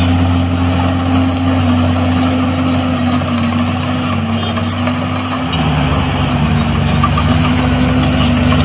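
Heavy diesel engine of earthmoving machinery running steadily; its low note changes about five and a half seconds in.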